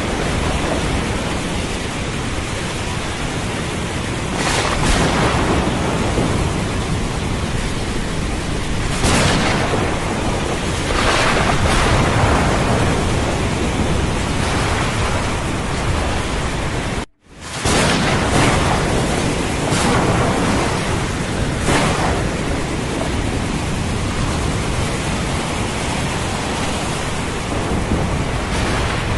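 Thunderstorm with steady heavy rain and thunder rumbling at intervals. All sound cuts out abruptly for about half a second roughly two-thirds of the way through.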